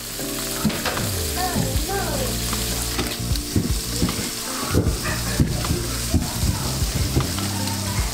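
Sliced bell peppers sizzling in hot oil in a nonstick skillet: a steady frying hiss with scattered small crackles and pops.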